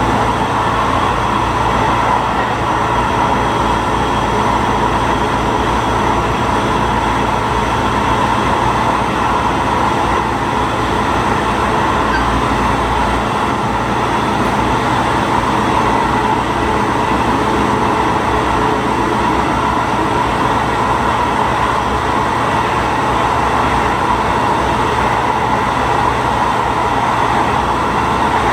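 Diesel railcar running steadily along the line, heard from inside the car at the front: a continuous engine hum with rolling wheel and track noise.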